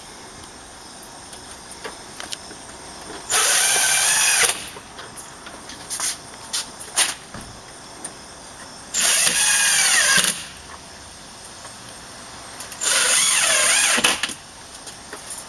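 Cordless drill/driver driving screws through a storm door's mounting frame: three short runs of the motor, each about a second long and spaced a few seconds apart, its pitch bending as the screw bites, with small clicks of handling in between.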